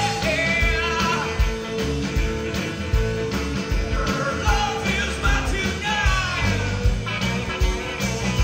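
Rock music with drums, bass and guitar, and bending lead lines over a steady beat.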